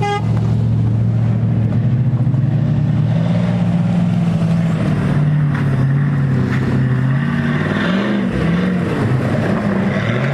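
Off-road 4x4 engine running under load. Its pitch holds fairly steady, dips about halfway through, then rises and falls in quick revs near the end.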